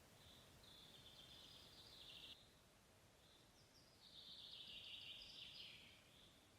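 Faint songbird song: two long, high phrases, one starting about half a second in and the other a little past halfway, with short chirps between them.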